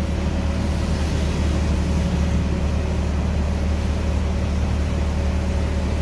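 Fire truck engine running steadily: a constant low drone with no change in pitch or level.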